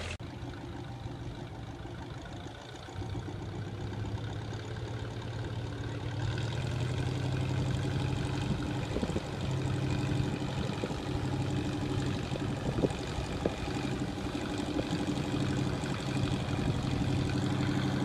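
Engine of a heavy machine running steadily, growing louder about three seconds in and again about six seconds in.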